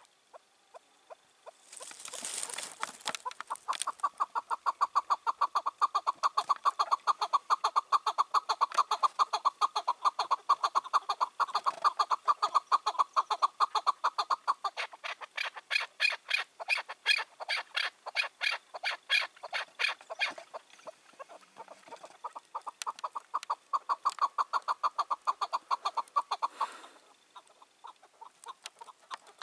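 Chukar partridge calling: a long run of rapid, repeated clucking notes that goes on for over twenty seconds, with a short lull partway through. A brief rushing noise comes just before the calls begin, and another as they stop.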